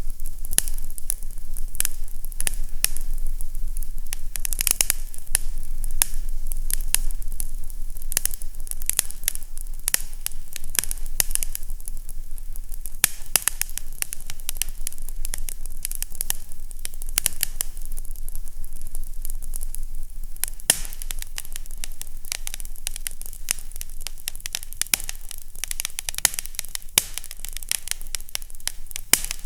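Fireplace fire crackling: a dense run of irregular small pops and snaps over a low steady hum.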